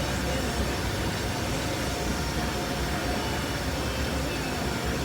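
Car-wash equipment running continuously: a steady, even rushing noise that does not change.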